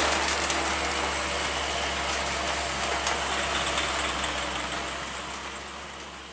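Heavy truck engine running with a steady low hum under an even hiss, fading away near the end.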